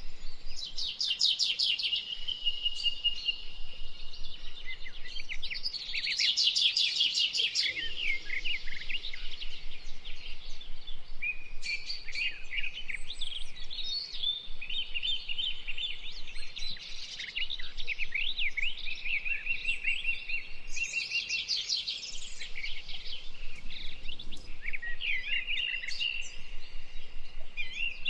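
Several songbirds singing at once, with quick high trills and phrases overlapping one another throughout.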